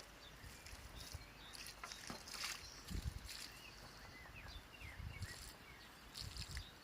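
Faint outdoor ambience with short, scattered bird chirps, and several low rumbling bumps on the microphone, the strongest about three seconds in.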